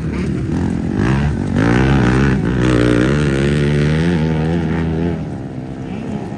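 Motocross bike engine accelerating about a second in, held at high revs with small rises and dips, then backing off about five seconds in.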